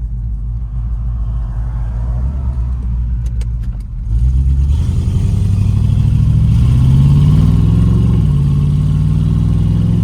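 A 1977 Corvette's small-block V8 through shorty side exhaust, rumbling low at first, then pulling away about four seconds in. The engine note climbs, drops a little past the middle at a gear shift, and climbs again.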